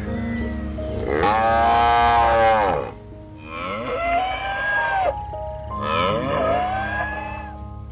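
Drawn-out, moo-like animal calls: one loud, long call about a second in, then two shorter, weaker calls that rise and fall in pitch.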